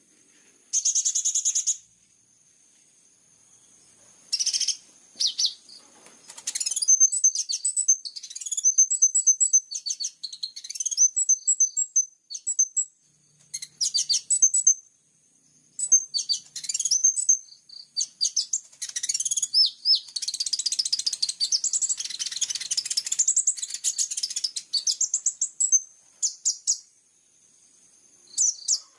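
Small songbird singing high, rapid chirps and trills in bursts separated by short pauses, with a long, dense run of song in the second half. This is a 'masteran' recording of filler song played to teach a caged sunbird to sing.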